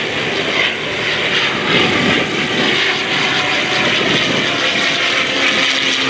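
Large piston engine of a World War II propeller fighter in flight, a steady loud drone that swells slightly now and then.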